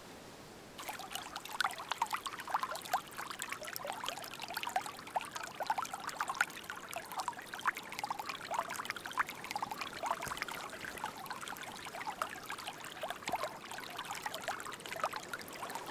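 A small forest stream trickling and gurgling, starting suddenly about a second in.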